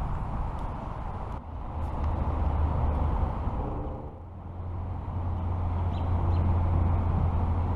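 Road traffic from a nearby highway: a steady low rumble that swells as vehicles pass, dips about four seconds in, then builds again, with a few faint clicks.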